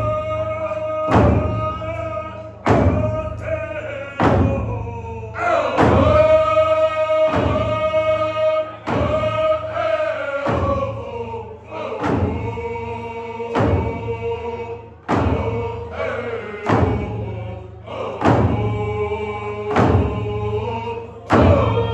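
Group of voices singing a traditional Indigenous song in unison, holding long notes, over a slow, steady drum beat of about one stroke every second and a half.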